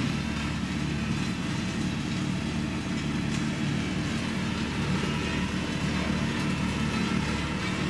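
Diesel engine of heavy road-building machinery running steadily.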